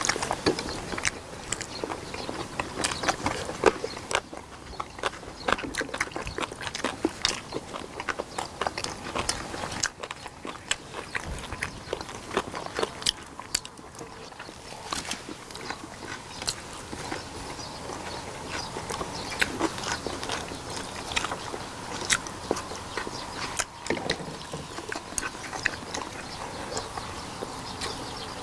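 Several people chewing and smacking their lips as they eat braised pig's feet (jokbal). The sound is a dense, irregular run of short clicks and smacks.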